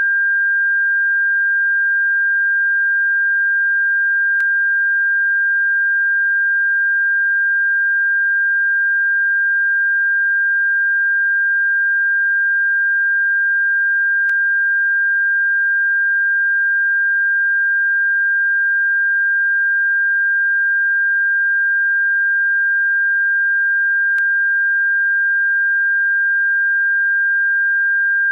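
Electronically generated pure sine tone played as a bird-repellent frequency: a single steady high-pitched tone that never changes in pitch or loudness. Faint clicks are heard three times, about ten seconds apart.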